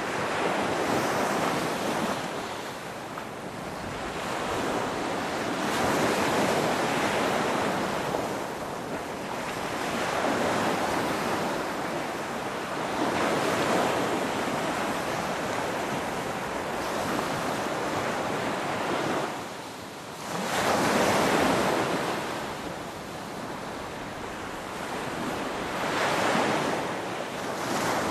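Ocean surf: waves breaking and washing in as a continuous rush that swells and fades every few seconds. The loudest wave comes about two-thirds of the way through, right after a brief lull.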